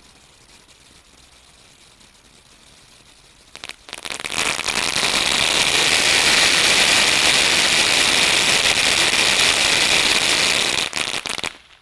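Brothers 'Rarin To Go' firework going off. A few sharp pops start about three and a half seconds in, then a loud, dense, rapid crackle of reports runs for about seven seconds and stops abruptly near the end.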